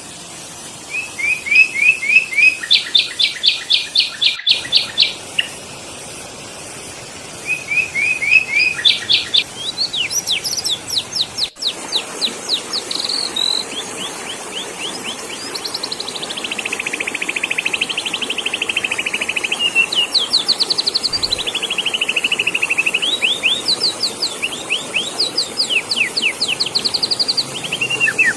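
Sooty-headed bulbul (kutilang) lure calls: fast runs of short repeated notes and trills in series, with a pause of a couple of seconds and two sudden brief dropouts where the recording is spliced.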